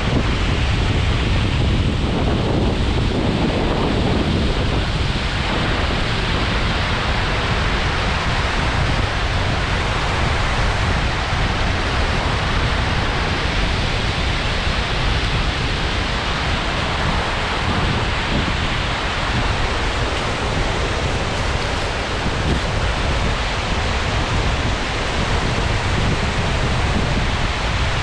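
Abe no Otaki, a plunge waterfall of about 45 m, falling into its pool: a steady, loud rush of water with a deep rumble underneath.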